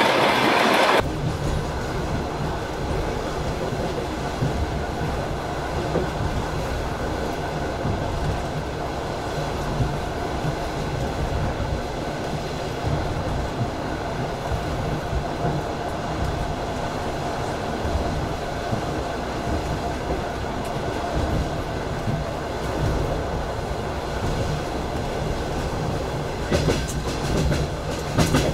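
Passenger train carriage rolling along the rails: a steady rumble with wheel clatter over the rail joints, and a run of sharper clacks near the end. A loud rushing noise cuts off abruptly about a second in.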